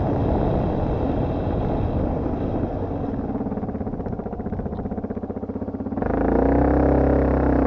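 Dirt bike engine running: the throttle eases off to a quieter, pulsing run, then is opened hard about six seconds in, with a rising and falling rev.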